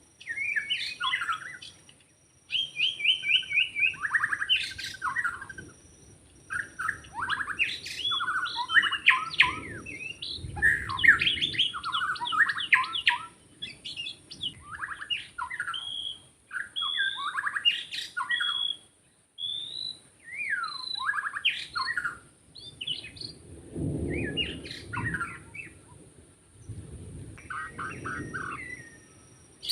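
White-rumped shama singing a varied song of whistled and rapid chattering phrases in bursts with short pauses, joined by a few low rumbles.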